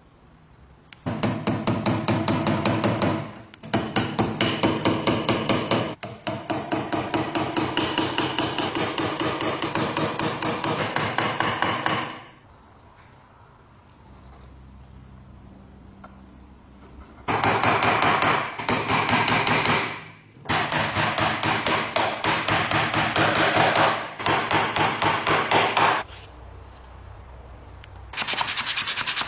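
Rapid, evenly repeated striking or tapping, as from a tool working, in bouts of a few seconds with short pauses between.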